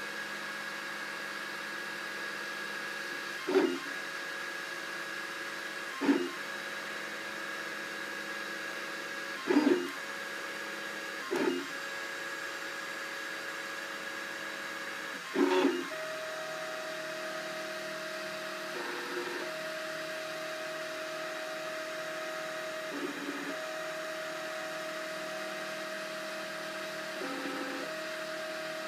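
Cubify 3D printer running a print: a steady motor whine broken every few seconds by short, louder buzzes. About halfway through, the steady tone shifts lower and the buzzes become fainter.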